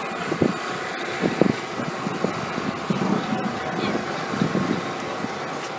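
A vehicle engine running steadily, with faint voices in the background.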